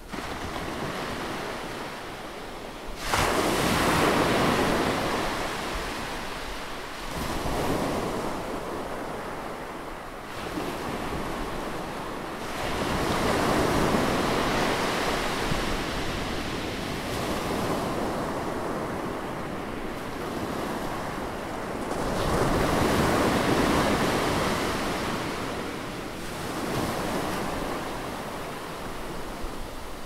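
Atlantic Ocean waves breaking: a continuous wash of surf that swells and ebbs every few seconds. A sharp surge of surf comes about three seconds in, and another big swell about two-thirds of the way through.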